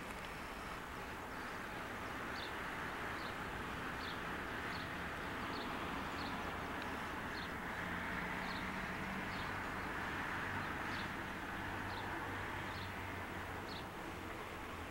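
Outdoor background rush with a low hum that grows louder through the middle and eases near the end, under a bird repeating a short high chirp a little more than once a second.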